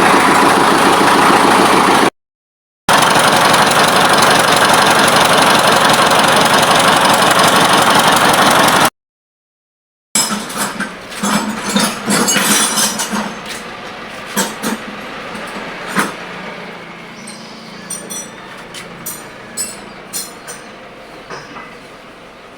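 Ford 5000 tractor engine running loud and steady, on an engine that smokes and starts hard. The sound cuts out abruptly twice. From about ten seconds in, the engine is no longer heard, and scattered clicks and knocks come and go, fading toward the end.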